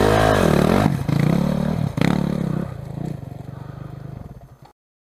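Dirt bike engine revving up and down, then dropping to a lower, steadier run that fades and cuts off abruptly near the end.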